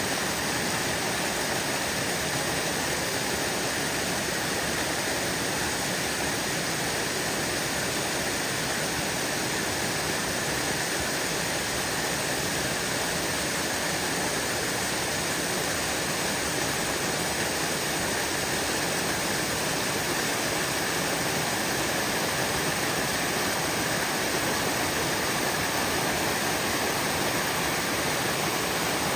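Brook water running steadily: an even, unbroken rush of flowing water.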